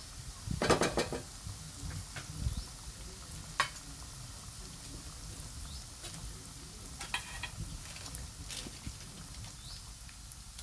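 Spoon stirring chicken pieces and spice masala in hot oil in a pan. A faint steady sizzle runs throughout, with scrapes and clinks of the spoon against the pan, the loudest cluster about a second in and a few single ones later.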